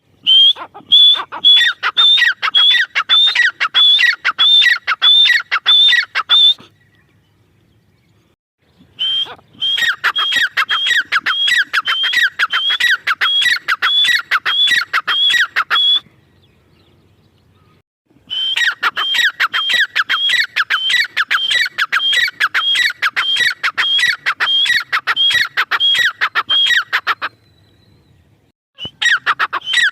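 Female grey francolin (teetar) calling in loud runs of fast repeated notes, about two a second, in four bouts broken by short pauses.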